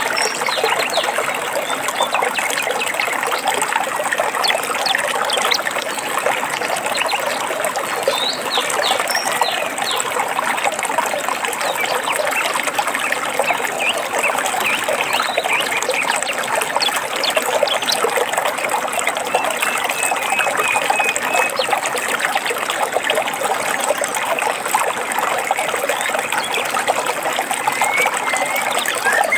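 Small stream trickling and gurgling steadily, with a few scattered bird chirps above it and a short repeated trill a little past the middle.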